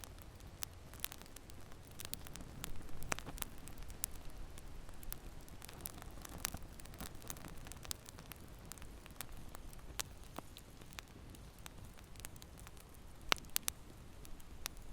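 Wood fire crackling in a fireplace: a low steady rumble of flame with irregular sharp pops and snaps, one louder pop near the end.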